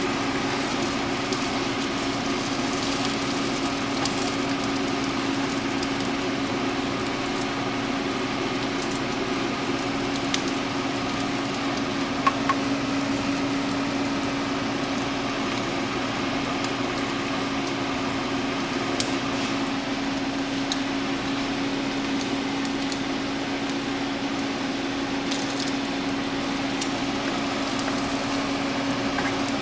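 Omelet sizzling steadily in a frying pan, over a steady low hum, with a few small clicks about twelve seconds in.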